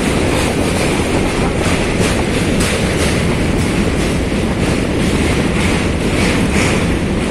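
Train running over a steel truss bridge, heard from on board: a steady, loud rumble of wheels on the rails with repeated clatter.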